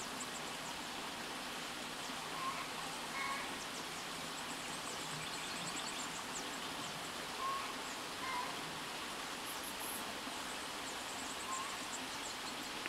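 Wild birds calling: faint, rapid high chirps and five short, clear call notes, over a steady rushing background noise.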